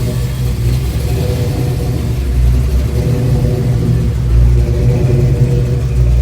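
A car engine running with a low rumble, swelling a little in the middle as the revs rise slightly.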